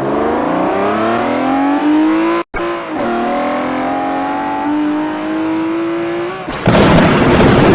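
Car engine accelerating hard, its pitch climbing, cutting out briefly about two and a half seconds in and then climbing again in the next gear. Near the end it gives way to a loud, noisy, crackling burst.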